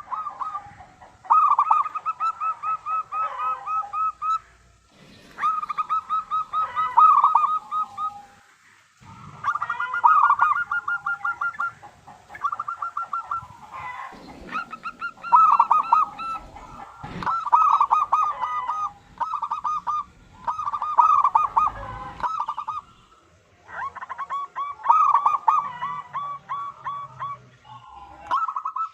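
Zebra dove (perkutut) song: bouts of rapid, evenly repeated cooing notes, each bout lasting a few seconds, with short pauses between them.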